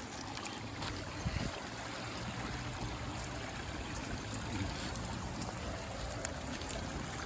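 Steady rush of flowing water from a stream, with a few faint clicks.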